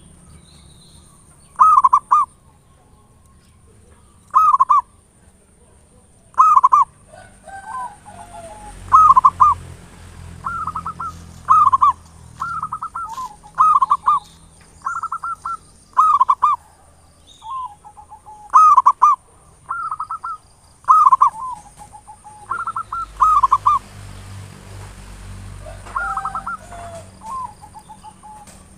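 Zebra dove (perkutut) cooing in short repeated phrases, about one every one to two seconds, with a few quieter, lower coos in between.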